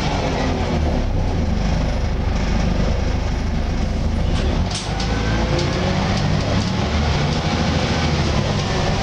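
Volvo B10BLE single-deck bus running with a steady low rumble and wavering groaning tones over it.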